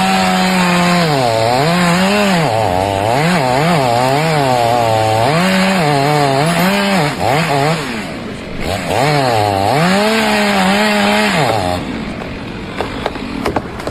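A small engine revved up and down over and over, its pitch rising and falling several times a second at times. It cuts off about twelve seconds in.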